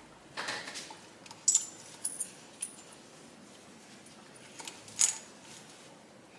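Light metallic clinks and taps of small engine parts being handled by hand while the top end of a Honda SL125 engine is stripped, with about half a dozen separate sharp clinks and the loudest one about five seconds in.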